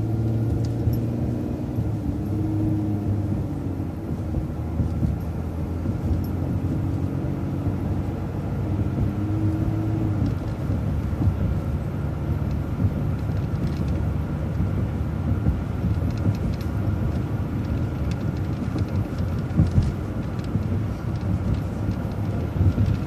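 City bus on the move: steady engine and road rumble, with the engine note rising and falling and dropping away about ten seconds in as the bus changes speed.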